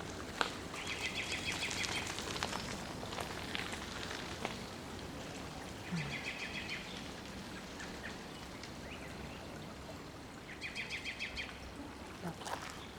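A songbird singing the same short, rapid trill of repeated notes three times, a few seconds apart.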